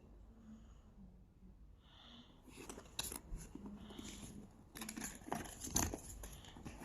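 Handling noises: a run of sharp clicks and crinkles, starting about two and a half seconds in and busiest near the end.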